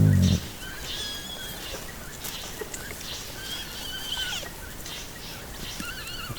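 Baby hyenas: a deep growl that cuts off about half a second in, then three high, wavering squeals, each under a second long, spaced a couple of seconds apart.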